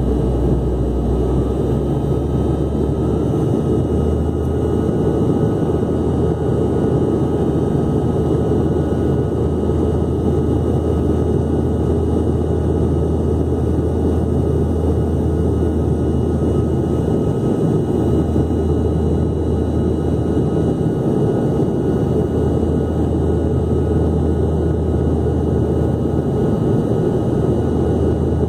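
Steady engine and airflow noise heard inside a passenger airliner's cabin on the approach to landing: a constant low rumble with a faint steady hum above it.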